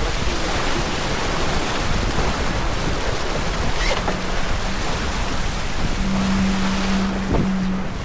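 Wind on the microphone and water rushing past the hull of a racing sailboat under way. A steady low hum comes in about four seconds in and is strongest near the end.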